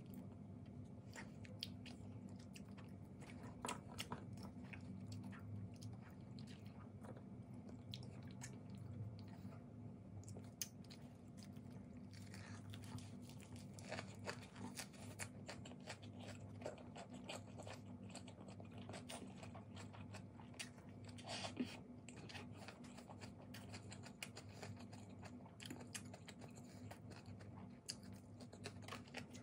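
Faint close-miked chewing and crunching of a lettuce wrap with boiled pork belly and kimchi, with many small wet mouth clicks over a steady low hum.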